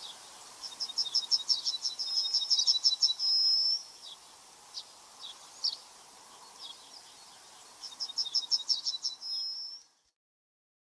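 A songbird singing twice: a rapid trill of high notes that ends in a short held note, with scattered single chirps between the songs, over a faint steady background hiss. The sound cuts off abruptly near the end.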